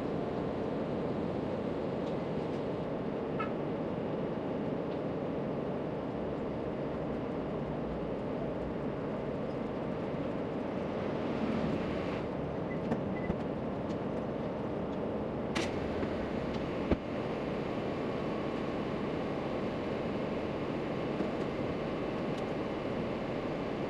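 Steady outdoor background rush with no clear single source, broken by a few faint clicks, the sharpest about two-thirds of the way through.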